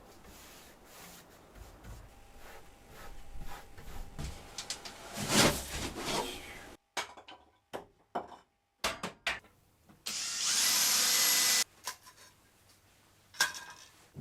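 Edited clips of DIY wood and tool work: knocks, rubbing and handling noises, then a power tool running steadily with a high whine for about a second and a half near the end.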